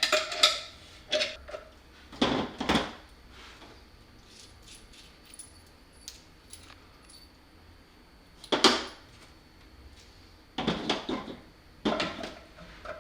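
Metal tools and parts clinking and knocking on a workbench in scattered short clatters with quiet gaps between.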